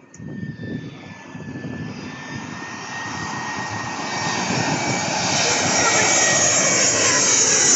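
Jet airliner on landing approach passing close overhead: its engine noise swells steadily louder, with a high whine that falls in pitch in the second half.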